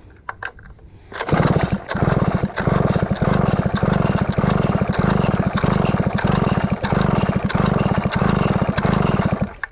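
Stihl 051 chainsaw engine being turned over fast with its spark plug out, a rapid steady chuffing that starts about a second in and stops shortly before the end, blowing sprayed carb cleaner and debris out of the engine.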